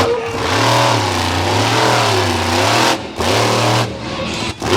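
Monster truck engine revving hard, its pitch swinging up and down with the throttle, dropping away briefly about three seconds in and again near the end.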